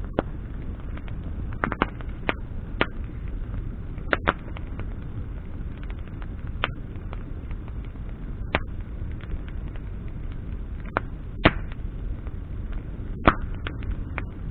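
Campfire of burning branches crackling: irregular sharp pops and snaps over a steady low rush, with the two loudest pops in the last few seconds.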